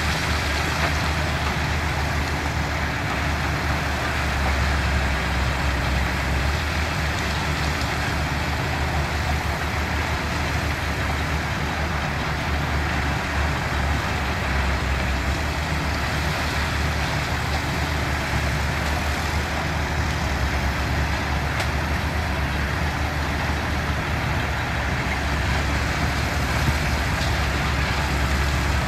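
Diesel engines of heavy construction machinery running steadily, a constant low drone with no clear revving or impacts.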